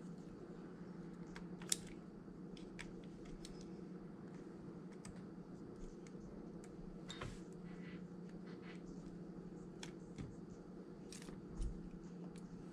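Scattered light clicks and ticks of small hand tools handling phone parts, over a steady low hum.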